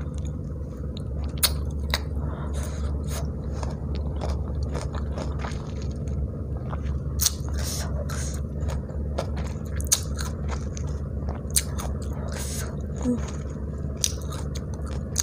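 Close-miked chewing of crisp unripe mango: scattered wet clicks and crunches of mouth noise over a steady low hum.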